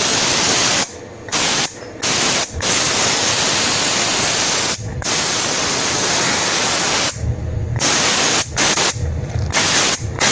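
Steam cleaner wand jetting a loud, steady hiss of steam onto a motorcycle, released and restarted several times with short breaks, most of them in the second half.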